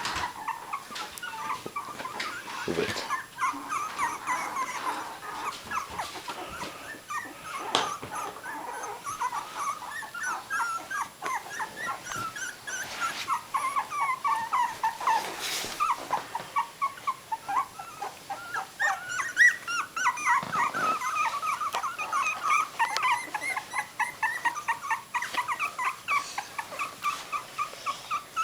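Several three-week-old miniature dachshund puppies whimpering and squealing, a constant overlapping run of short high-pitched cries, several a second. They are protesting at being separated from their mother.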